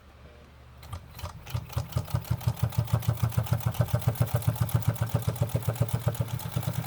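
New Home electric sewing machine stitching through two layers of leather: the motor hums, then about a second in the needle starts a fast, even beat of roughly seven stitches a second that builds up and keeps going. The machine goes through the double leather fairly easily.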